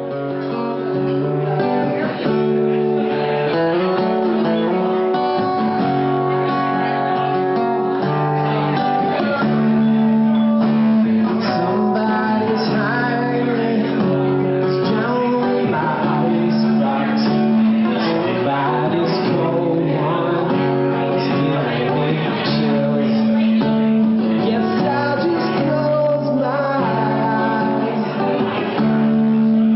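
Acoustic guitar played live, a steady instrumental passage of ringing chords and picked notes.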